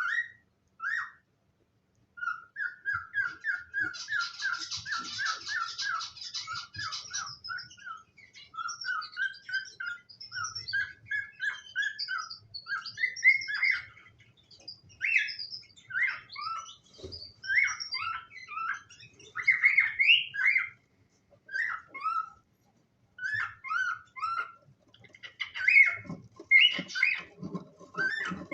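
Cockatiels chirping and calling over and over in short, quick chirps, many sliding upward in pitch, with a brief pause near the start.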